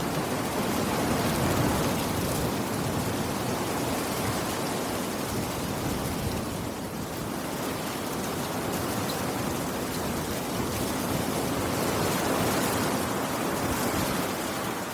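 Steady, dense rainfall: an even wash of rain noise with no distinct drops or thunder standing out.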